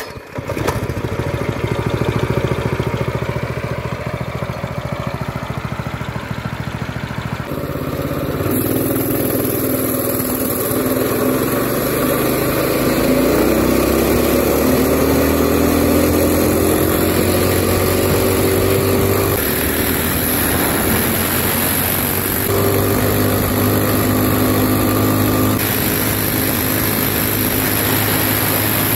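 Minibike's small single-cylinder engine running hard with its governor bypassed by a zip tie, revving up and down. Its pitch climbs steadily from about ten seconds in and drops back near twenty seconds, then picks up again.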